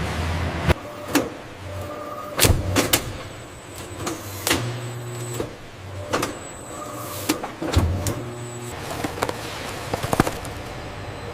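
Factory machinery clanking and whirring: a dozen or so sharp mechanical clicks and clunks at uneven intervals, with short electric-motor whirs of about a second between them, like actuators starting and stopping.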